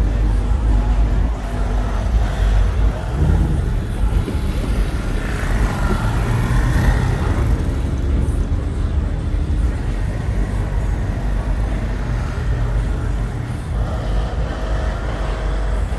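Car engines running at a car show, a steady heavy low rumble.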